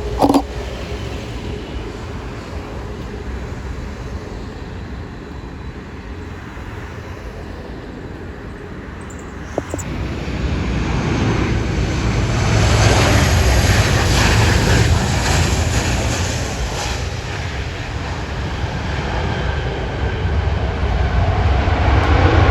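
Jet airliner engines running, a rushing noise with a low rumble that grows louder about ten seconds in, eases off, then builds again near the end.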